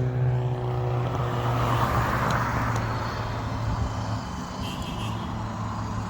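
A car engine running as a car drives past, its rushing sound swelling about two seconds in and then fading away, over a steady low engine hum.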